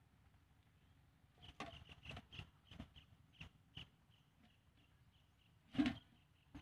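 A bird calling faintly in quick, evenly repeated high chirps, about four a second, over scattered soft clicks and knocks. A louder knock comes near the end.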